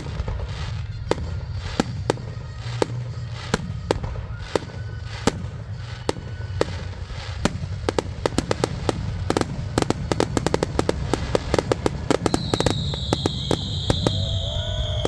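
Fireworks grand finale: a steady run of aerial shell bangs that grows into a rapid, dense barrage from about halfway on, over a continuous low rumble, with a high hiss coming in near the end.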